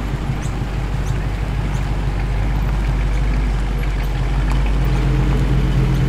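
Two Ford Mustangs' engines running at low speed as the cars roll in, a steady low rumble that grows slowly louder toward the end.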